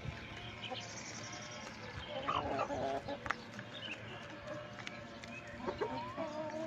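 Chickens clucking and calling in short, scattered notes, with some higher chirps and a few light clicks.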